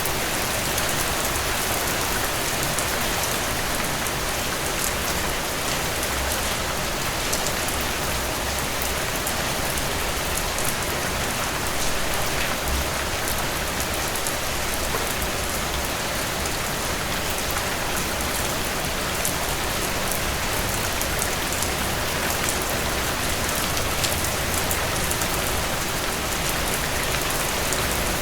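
Heavy rain falling steadily on a tin roof: a dense, even hiss with many sharp drop ticks on the metal.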